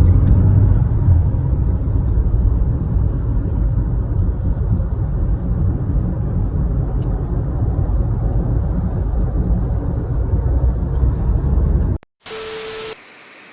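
Loud, steady low rumbling noise that cuts off suddenly near the end, followed by a short hiss with a steady tone for about a second.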